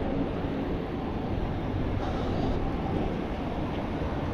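Steady low vehicle rumble, a truck's engine running with no change in speed.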